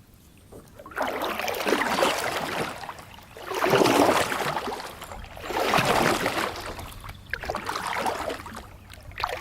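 Kayak paddle strokes in water: four splashing swishes about two seconds apart.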